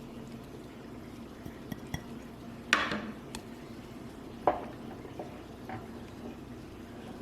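Soup being stirred in a pot: a utensil clinking against the pot a few times over a low, steady background, with two sharper clinks about three and four and a half seconds in.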